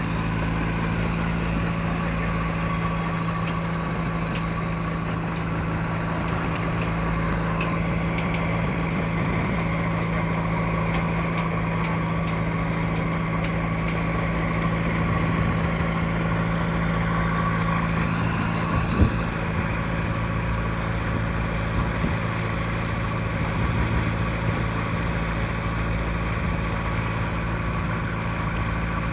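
A fishing trawler's engine running steadily with an even hum, and one sharp knock about nineteen seconds in.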